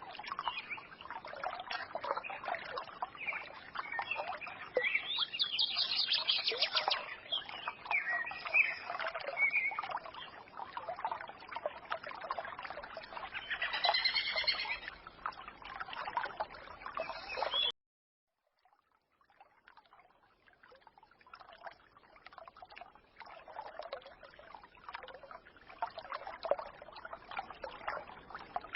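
Small forest stream trickling and babbling, with small birds chirping over it, clearest about 5 and 14 seconds in. The sound cuts out abruptly about 18 seconds in, then the trickling fades back in, quieter.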